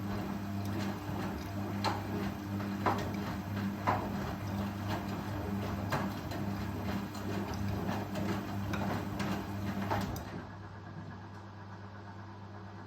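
Indesit Ecosense washing machine running through its spin cycle: a steady low hum with irregular knocks and clatters over a hiss. The knocks and hiss stop about ten seconds in, leaving the hum.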